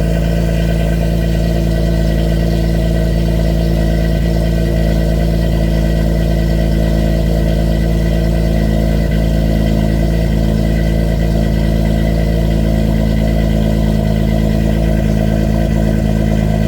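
Honda Accord's J-series V6 idling steadily through a custom 3-inch exhaust from the J-pipe back, on its first start-up after the exhaust rebuild.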